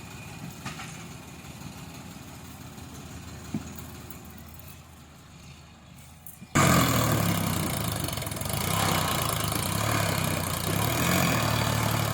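Tractor engine running quietly at idle. About halfway through, a much louder engine sound cuts in suddenly and runs hard, with a pulsing low hum.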